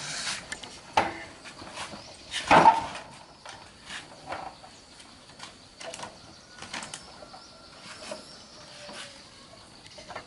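Scattered clicks and knocks, like objects being handled and set down, with one louder clatter about two and a half seconds in.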